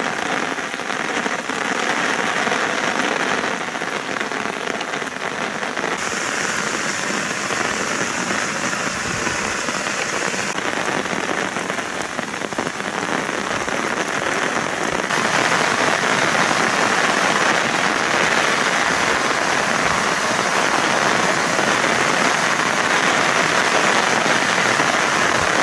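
Heavy rain falling on wet asphalt and pavement, a steady hiss that grows somewhat louder about fifteen seconds in.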